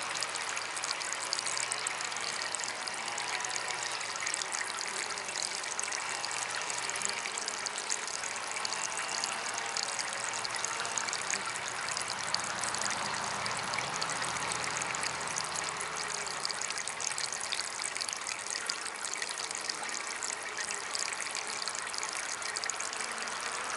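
Small DIY water fountain trickling and splashing steadily.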